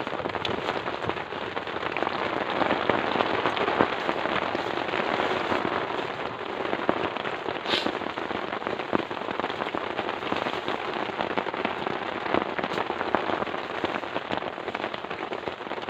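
Heavy rain falling steadily, with many close drops striking as fine sharp taps.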